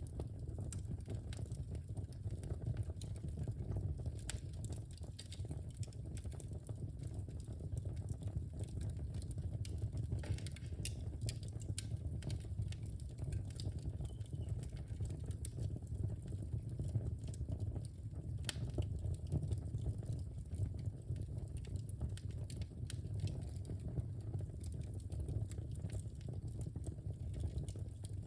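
Wood fire burning in a fireplace: a steady low rumble of flames with frequent small irregular crackles and pops from the logs.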